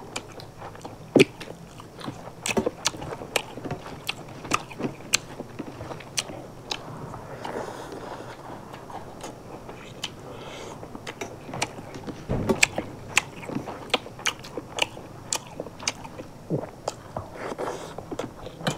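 Two people eating with their hands, chewing and crunching mouthfuls of food, with many irregular sharp clicks and smacks.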